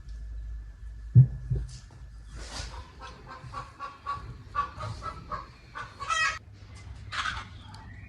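Domestic fowl clucking, a run of short repeated calls, after a single knock about a second in.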